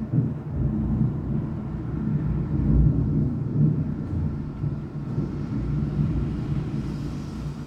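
Low rolling rumble of thunder during a rainstorm, swelling and fading, loudest a little under halfway through.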